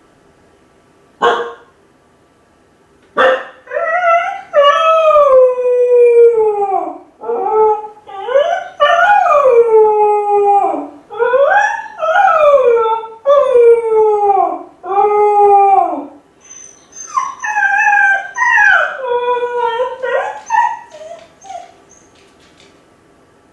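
A Kai Ken dog howling over and over, a long run of drawn-out calls that each slide down in pitch, with a short yelp before them and a wavering howl near the end. It is the lonely howling of a dog left home alone, calling for its family.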